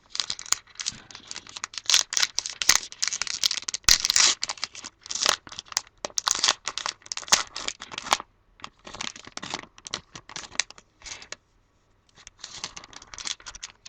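A trading-card pack wrapper being torn open and crinkled by hand, a dense run of crackling for the first several seconds, then shorter bouts of rustling with a brief pause near the end.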